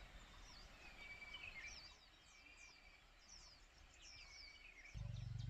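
Faint chirping and twittering of small birds, many short quick-falling calls. A low steady rumble starts suddenly near the end.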